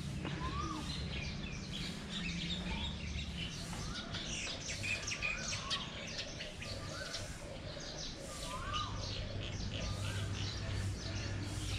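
Outdoor birds chirping: a busy chorus of short high chirps, with one bird repeating a short whistled note that rises and falls every second or two.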